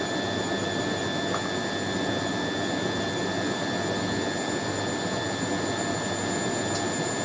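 Hoover A3060 Electronic 1100 front-loading washing machine spinning at a steady speed: an even rushing drum noise with a constant high motor whine.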